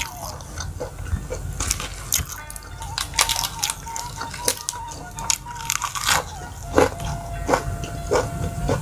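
Close-miked crunching as raw lettuce wrapped around food is bitten and chewed, a series of crisp crunches. Under it plays background Sundanese suling (bamboo flute) music holding long notes.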